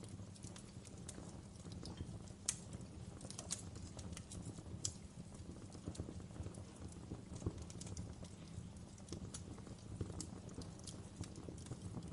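Wood fire burning in a fireplace: a steady low rumble with irregular sharp crackles and pops from the logs, a few louder pops standing out.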